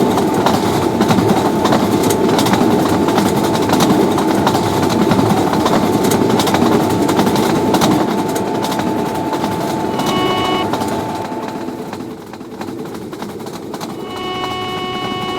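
A train passing: dense clatter of wheels over the rails with many sharp clicks, fading after about eight seconds. A locomotive horn sounds briefly about ten seconds in and again near the end.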